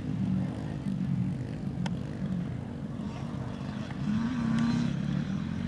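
Dirt bike engines running on a motocross track, a steady drone, with one bike's pitch rising slightly and holding, a little louder, about four seconds in.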